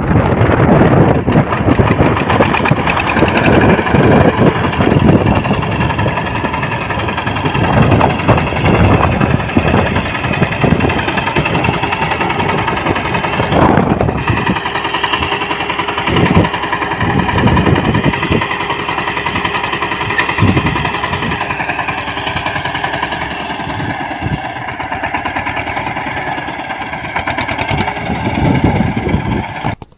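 Small engine of a homemade mini tractor running, with irregular knocks and clatter over its steady note.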